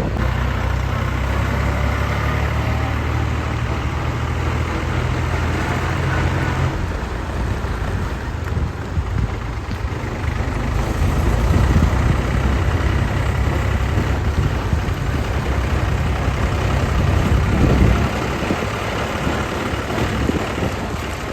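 Diesel tractor engine running: a steady low hum for the first several seconds, then a rougher, more uneven rumble that grows louder in the middle.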